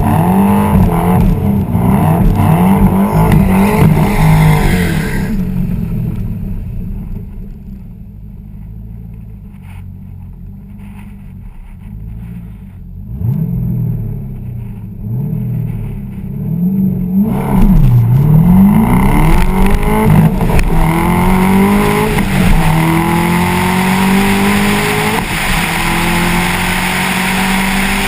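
Twin-turbo Corvette C6 V8 running loud and uneven, fading to a low level after about five seconds. Roughly two thirds of the way through the engine picks up again, its pitch climbing in several successive rising sweeps as it revs and pulls.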